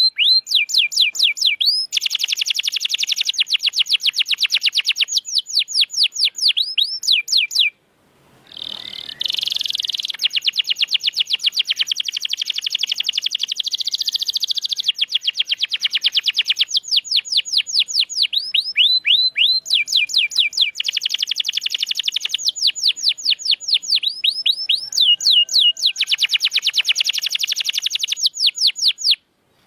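Domestic canary singing in long, fast trills of repeated high sweeping notes, some passages dense and buzzy. The song breaks off suddenly for about a second, about eight seconds in, then carries on.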